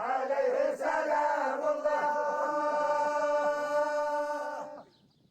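Sufi hadra dhikr: a group of voices chanting together. About two seconds in they settle on one long held note, which stops abruptly near the end.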